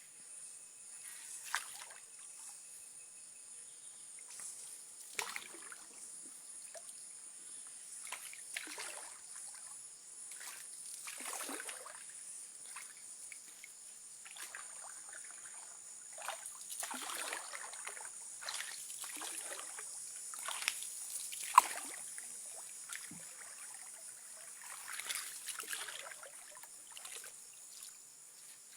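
Paddles dipping and pulling through river water beside a dugout pirogue: irregular sloshing splashes every one to three seconds. A steady, thin high-pitched drone runs underneath.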